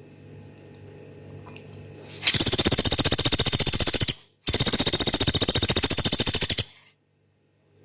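Pelatuk beras, a small woodpecker, giving two long, harsh rattling trills of about two seconds each, the first starting about two seconds in, with a short gap between them. A faint low hum sits underneath.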